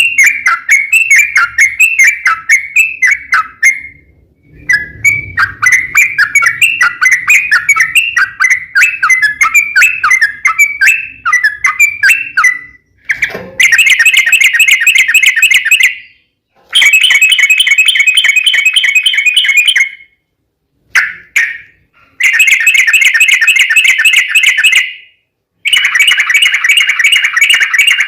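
Yellow-vented bulbul (trucukan) song: quick bubbly chattering phrases for about the first dozen seconds, then long rapid trills of two to three seconds each with short breaks between them, the 'ropel panjang' used as a lure to set other bulbuls singing.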